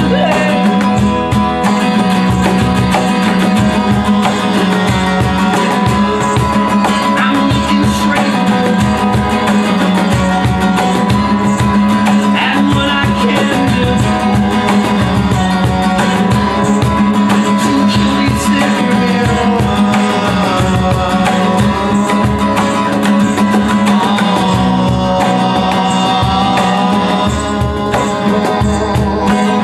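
Band playing music: guitar over a steady percussion beat.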